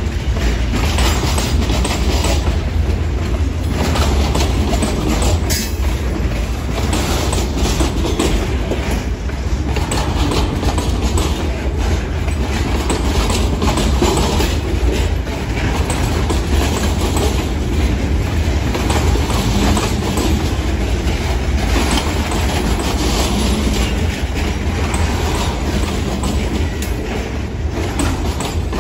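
Freight train's open-top hopper cars rolling past close by: a steady rumble of steel wheels on rail with repeated clacks as the wheels pass over the rail.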